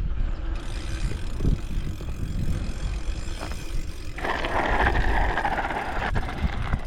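Bicycle riding, with wind rumbling on the camera microphone and tyre noise. About four seconds in, a louder rasping noise lasts for about two seconds.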